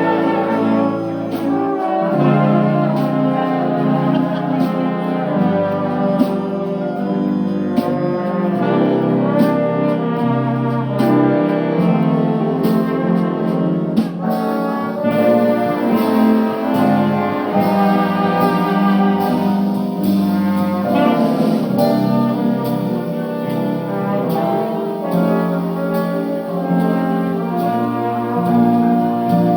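Big band music: a brass section of trumpets and trombones, with saxophones, playing over a steady beat.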